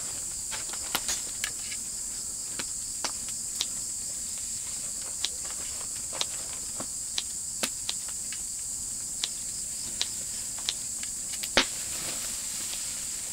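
Steady high chirring of crickets and other insects, with a dozen or so irregular sharp clicks and snaps over it, the loudest about eleven and a half seconds in.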